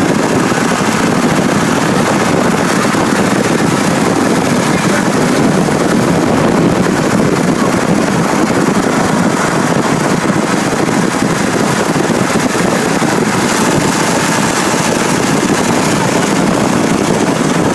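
Motorcycle engine running, loud and steady throughout.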